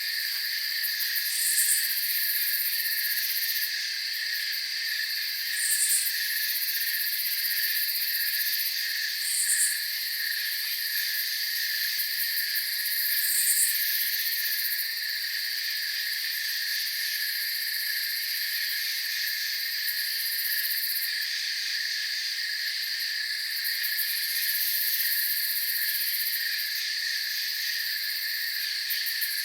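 Night chorus of crickets trilling steadily in two high pitch layers. A brief, higher chirp cuts through about every four seconds, four times in the first half.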